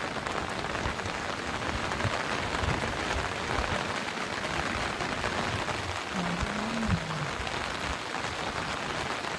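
Steady hiss of water, even and unbroken. A faint short tone rises and falls about six seconds in.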